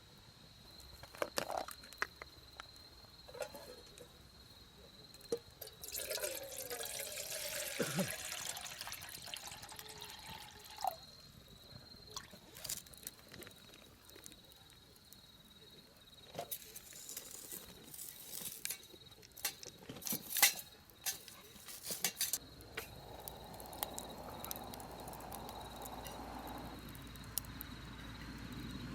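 Liquid being poured, with scattered clicks and knocks of camp cookware, over a faint steady high-pitched tone.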